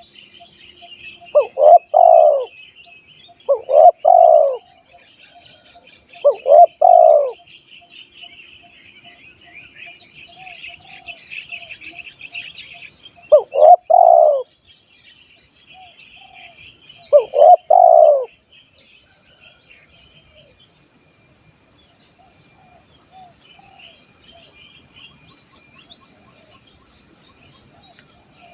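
Spotted dove (tekukur) cooing: five loud coos, each of two or three notes, spaced a few seconds apart, stopping about two-thirds of the way through. Underneath, insects keep up a steady high buzz and small birds chirp faintly.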